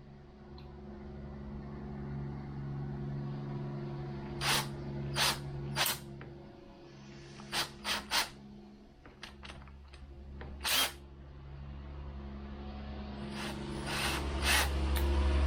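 Electric drill with a left-hand drill bit running on a bolt broken off in a motorcycle air filter box, a steady motor hum with several short sharp noises from the bit on the metal in the middle. The hum grows louder near the end.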